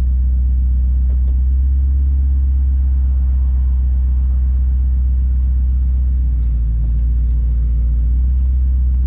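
BMW E93 M3's 4.0-litre V8 idling steadily with a deep, even rumble, running while it warms up.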